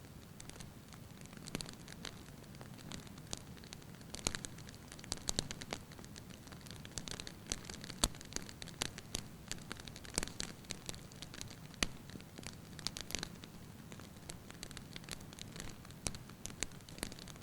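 Wood fire in a fireplace crackling: irregular sharp pops and snaps from the burning logs over a soft low rumble of the flames.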